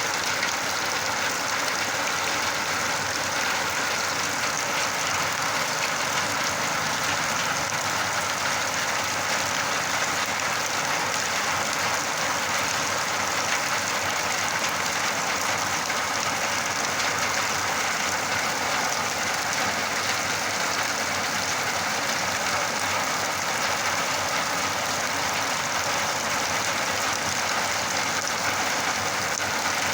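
Steady rainfall, an even noise that holds at the same level throughout.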